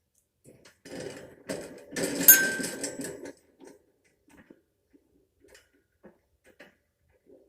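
African Grey parrot preening: a rustle of feathers lasting about two seconds, loudest in the middle, followed by scattered small clicks.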